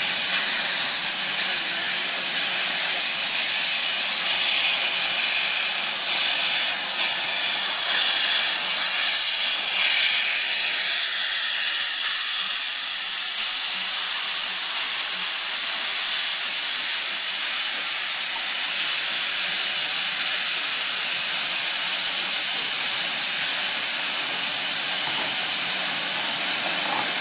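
Steam locomotive (LNER Q6 No. 63395) hissing steadily as steam escapes, with no chuffing or rhythm.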